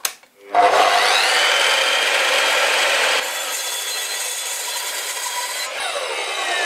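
Power saw switched on, spinning up with a rising whine and cutting through a walnut blank, running on more quietly after about three seconds, with falling tones near the end as the motor winds down.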